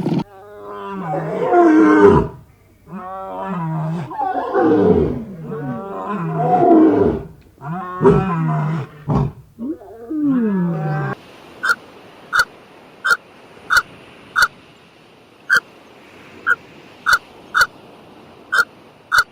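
A large animal giving five or six long, loud roaring calls, each falling in pitch. About eleven seconds in, these give way to a dozen or so short, sharp, high-pitched pips at uneven intervals.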